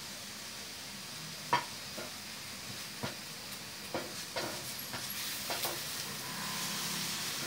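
Chicken pieces and ginger frying in oil in a pan with a steady sizzle, while a wooden spatula stirs them, knocking and scraping against the pan in irregular strokes from about a second and a half in. The sizzle grows a little louder near the end.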